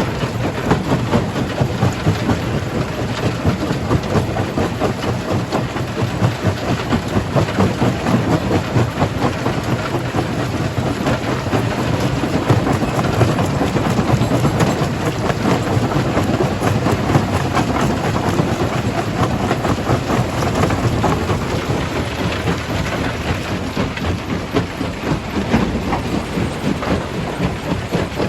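Stone crusher machine crushing rock: a continuous heavy rumble with a dense clatter of breaking and tumbling stone.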